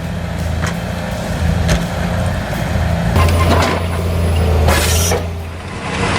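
Heavy machine's diesel engine running under load, with several sharp cracks and a short loud hiss about five seconds in.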